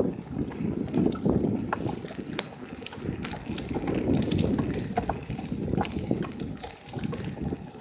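Bicycle rolling over a rough, unpaved road: an uneven rumble and crunch from the tyres, with scattered rattling clicks from the bike.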